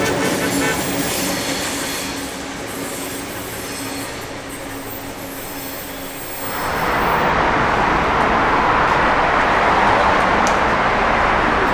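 A train running past: a steady engine hum fades away over the first six seconds, then a loud, even rushing noise starts about six and a half seconds in.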